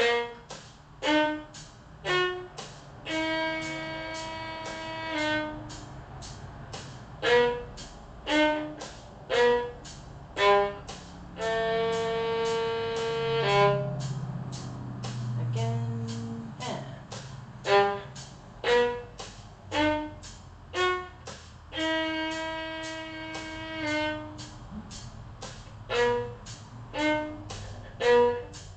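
Solo violin playing a G-sharp minor arpeggio melody in short, detached notes broken by rests, with three longer held notes along the way.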